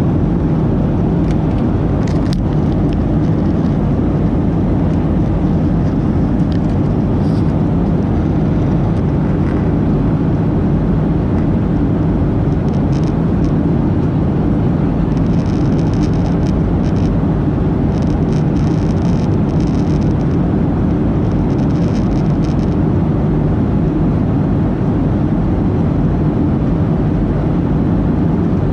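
Steady, loud drone of engines and rushing air inside the cabin of a Boeing 737-800, heard from a rear window seat, unchanging throughout. A few faint short hisses come and go around the middle.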